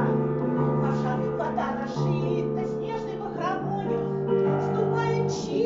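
A song with keyboard accompaniment: sustained chords that change every second or so under a wavering melody line.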